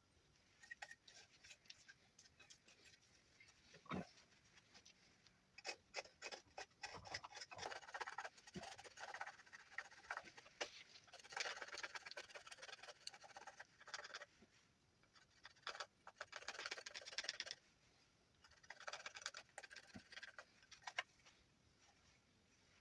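Knife whittling juniper wood: groups of short scraping shaving cuts with scattered clicks, faint and quiet, and one sharper knock about four seconds in.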